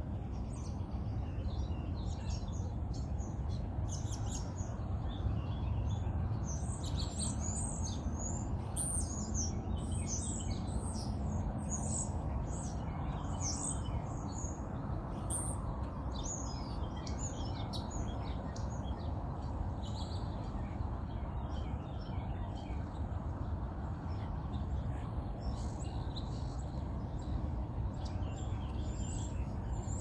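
Small songbirds chirping and twittering: many short, high calls, busiest over the first two-thirds and thinning out later. Under them runs a steady low rumble.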